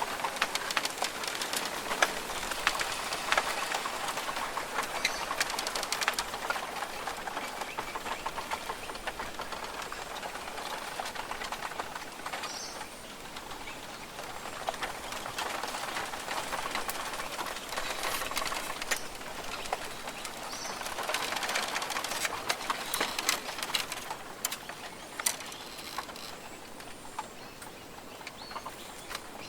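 Rainforest ambience: a dense patter of raindrops and drips on leaves, swelling and easing in waves, with a few faint bird calls.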